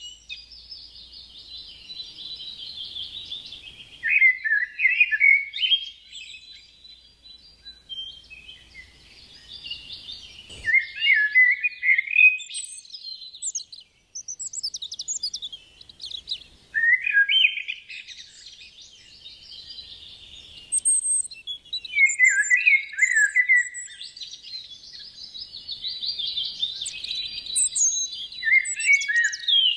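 Birds chirping and chattering almost without pause, with louder bursts of falling notes about every five to six seconds.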